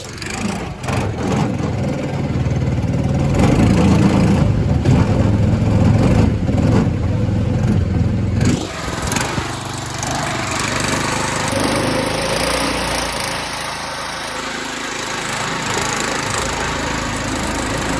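Small single-cylinder gas engine of a mud motor running hard under load for about eight seconds, then easing back to a lower, steadier speed.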